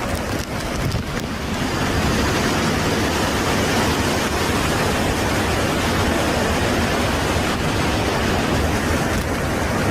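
Hurricane-force wind blowing hard, a steady loud rush of noise that swells slightly about a second and a half in.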